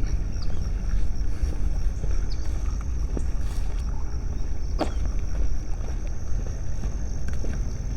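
Outdoor ambience: a steady low rumble with a continuous high, thin insect drone, and a couple of faint clicks.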